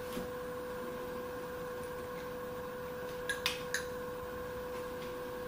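A spoon clinks against the pot three times in quick succession a little past the middle, over a steady background hum.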